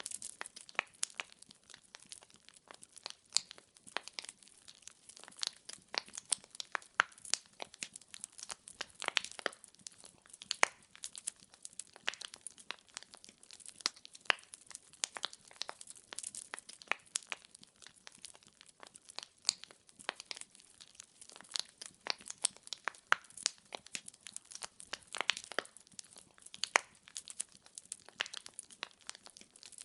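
Wood fire in a fireplace crackling, the burning logs giving off many irregular sharp pops and snaps over a faint hiss.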